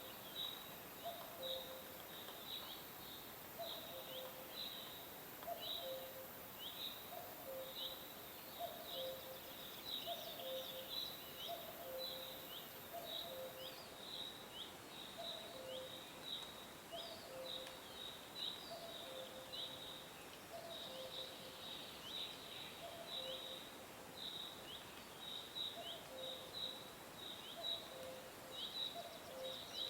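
Songbirds chirping in a continuous stream of short, high, falling chirps. Underneath, a low two-note call repeats steadily over a background hiss.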